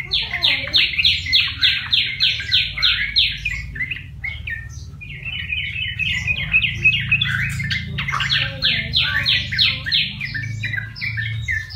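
Yellow-vented bulbul singing: two fast runs of sharp, down-slurred notes, about six a second, with a jumbled chatter between them. It is a wild-caught bird that has begun to sing after a month in captivity.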